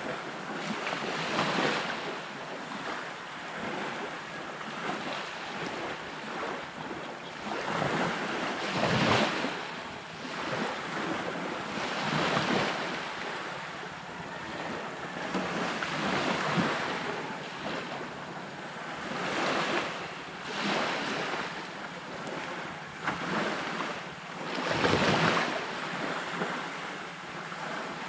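Sea waves washing onto a beach, swelling and falling every few seconds, with wind.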